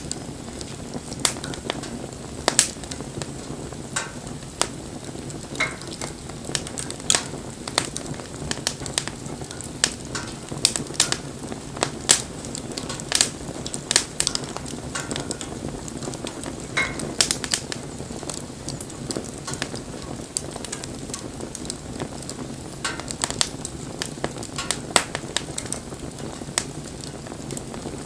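Wood bonfire burning: irregular sharp crackles and pops over a steady low rush of flames.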